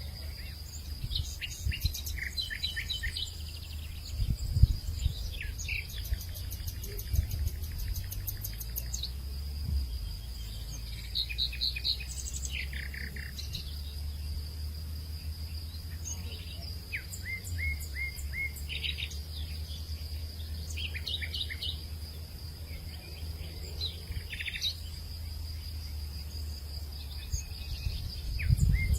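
Hillside ambience: assorted birds chirping and calling on and off, over a steady high insect drone. Underneath is a low wind rumble that swells briefly a few seconds in and again near the end.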